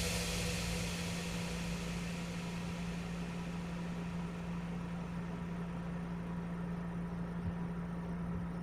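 A steady low electrical hum with a faint hiss that slowly fades over the first few seconds.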